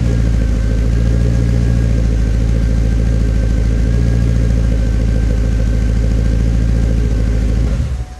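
Pontiac G8 GT's 6.0-litre V8 idling steadily through a custom 2.5-inch dual exhaust with Flowmaster Delta 40 rear mufflers, a Magnaflow centre muffler and high-flow 3-inch cats. The engine is switched off near the end and the sound dies away quickly.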